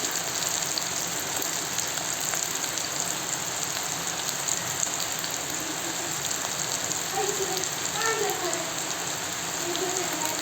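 Steady sizzling of food frying in hot oil in a pan.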